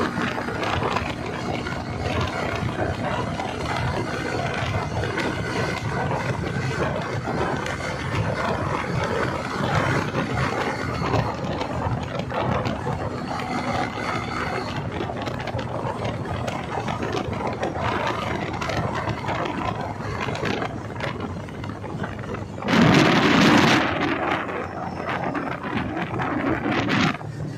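Motorcycle running along the road, a steady mix of engine and road noise, with a louder rush of noise lasting about a second near the end.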